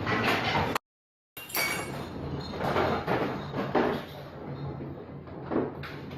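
Rattling and clattering of objects and fixtures, with scattered knocks. It is broken by a sudden cut to total silence about a second in, then resumes.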